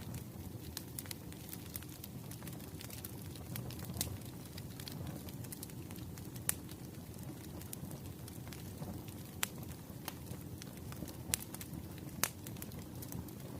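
Firewood burning in a fireplace: a steady low rumble of the flames with scattered crackles and several sharper pops from the burning logs.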